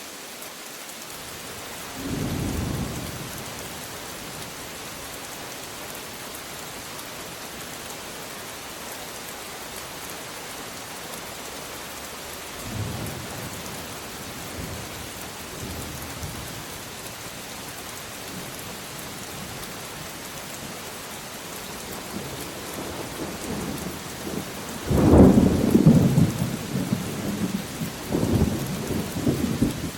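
Steady rain hissing, with thunder rumbling over it: a short rumble about two seconds in, a fainter one around thirteen seconds, and a long, loud peal starting about five seconds before the end, the loudest sound here.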